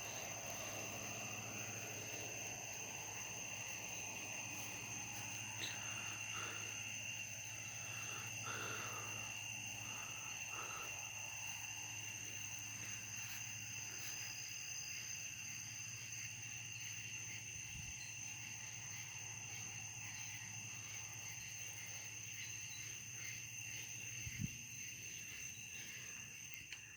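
Night-time cricket chorus: a steady, continuous high trill. A few faint knocks come in the first half, and a sharper thump comes near the end.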